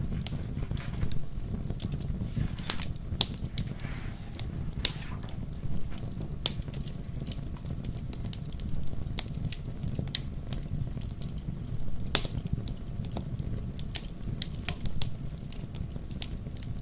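Fireplace fire crackling: irregular sharp pops and snaps over a steady low rumble, with a few louder pops scattered through.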